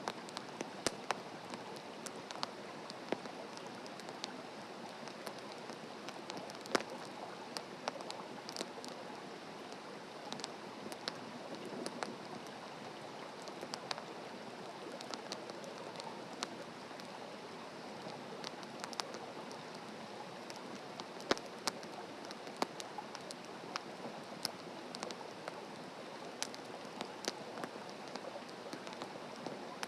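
Wood fire burning in a fire-pit stand, crackling with frequent irregular sharp pops and snaps over a steady hiss.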